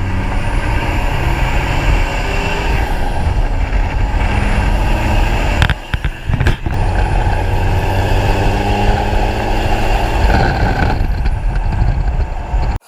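Loud, steady noise of a heavy motor vehicle running, with two brief breaks a little before the middle, cutting off suddenly at the end.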